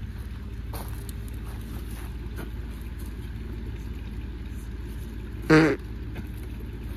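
Portable Kobalt air compressor running steadily with a low, pulsing rumble while inflating a car tyre. A short, loud pitched call breaks in about five and a half seconds in.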